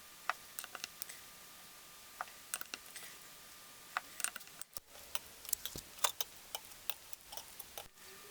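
Scattered, irregular sharp clicks and light knocks of tools and engine parts being handled during an engine rebuild, with two brief cutouts.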